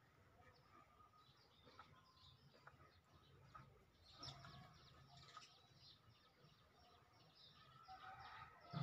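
Faint chirping of small birds, scattered short calls over a near-silent background, with a soft low bump near the end.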